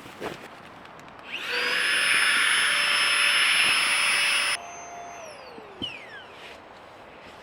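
Small electric motor-driven blower running loudly and steadily for about three seconds, then switched off, its whine falling in pitch as it spins down to a stop.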